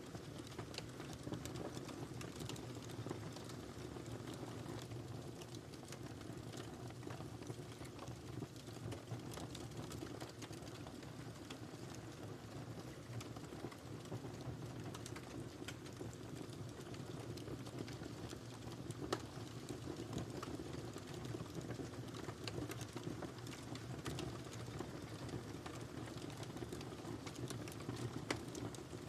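Wood fire burning in a fireplace: a steady low rumble of flame with scattered sharp crackles and pops, a couple of louder pops near the middle and near the end.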